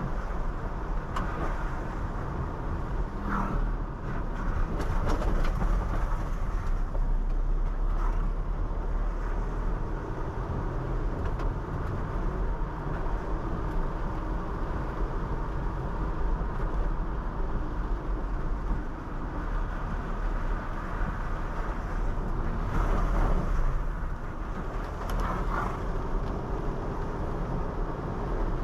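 Honda City 5th Gen sedan driving, a steady low rumble of engine, road and tyre noise, with a few short louder sounds now and then.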